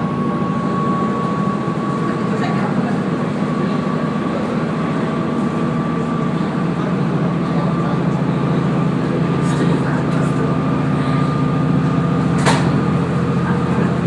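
Diesel railcar running steadily along the line, heard from inside the car: a constant rumble of engine and wheels with a thin steady whine, and one sharp click about twelve and a half seconds in.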